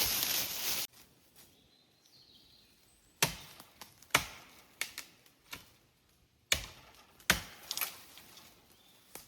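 About a second of loud rustling noise that cuts off suddenly, then a series of about eight sharp knocks at uneven intervals, each fading quickly, with faint bird chirps between them.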